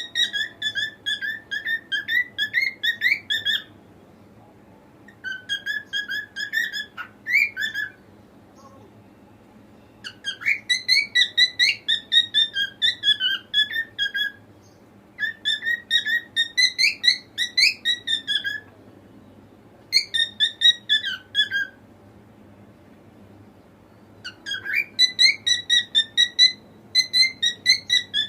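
Cockatiel singing: phrases of rapid whistled notes, about four a second, each phrase lasting a few seconds and separated by short pauses.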